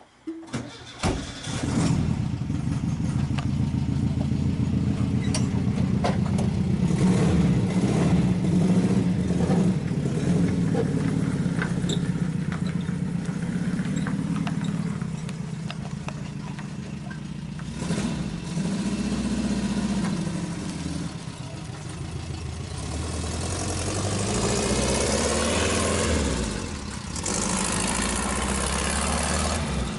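Volkswagen bus engine starting after a few clicks, then running steadily with some rises and falls in engine speed; a loud hiss joins in for the last several seconds.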